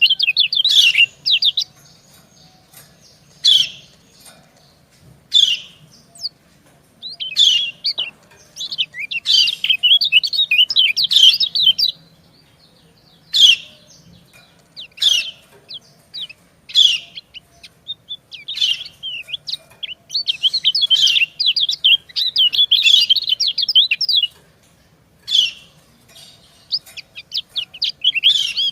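Kecial kuning white-eyes giving the female's high 'ciak' chirps. Single short chirps come a second or two apart, broken by several runs of rapid, dense twittering lasting a few seconds each.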